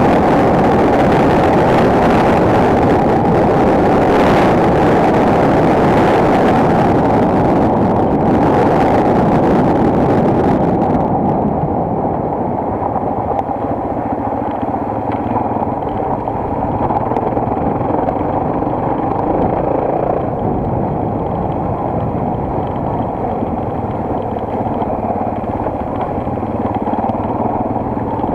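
Single-cylinder enduro motorcycle engine running while riding, mixed with a dense rush of wind on the microphone. About eleven seconds in the sound turns duller and a little quieter.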